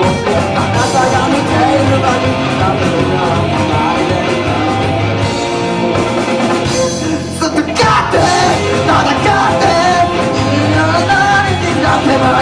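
Live rock band playing loud, with electric guitars, bass and drums and a singer shouting the vocal line.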